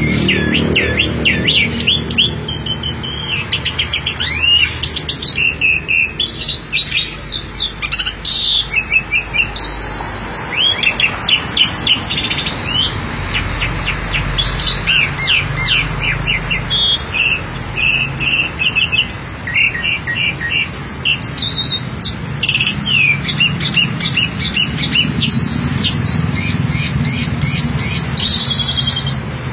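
Javan pied starling (jalak suren) singing a long, varied run of whistles, chirps and squawks with only short pauses, over a steady low rumble.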